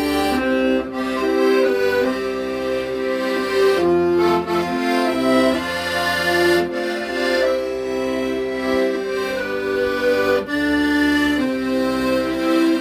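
Accordion playing a slow ballad melody, notes held for up to a second or so over sustained chords, with low bass notes changing beneath.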